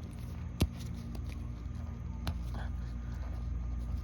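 Hands working the small O-ring off a plastic oil filter housing: two sharp clicks, a loud one just after the start and a softer one past two seconds in, over a steady low hum.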